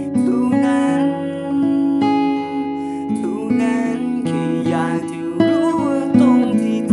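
Music led by a strummed and plucked acoustic guitar, its notes and chords changing every half second or so.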